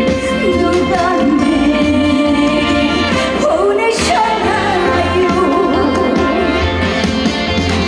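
A woman singing a Korean trot song live over amplified instrumental backing with a steady bass beat.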